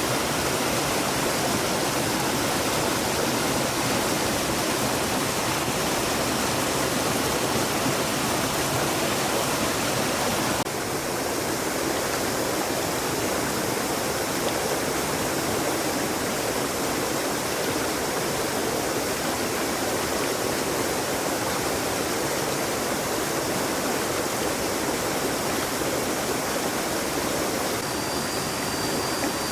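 Stream water flowing steadily with a full, even rushing sound that shifts slightly in tone and level about ten seconds in.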